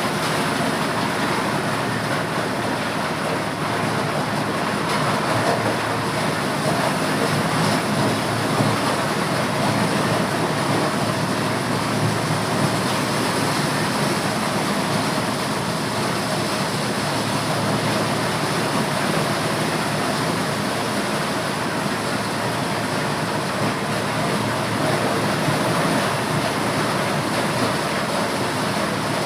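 Motorised corn sheller running steadily, a dense, even mechanical noise with no pauses.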